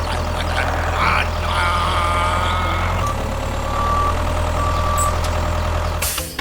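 Truck engine running with a steady low drone, with a reversing beeper sounding a few short high beeps about halfway through. The sound cuts off abruptly just before the end.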